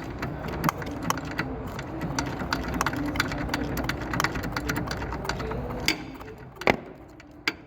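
Cordless power driver running an Allen bolt out: a steady small-motor whirr with rapid clicking that stops about six seconds in, followed by two sharp metallic knocks near the end.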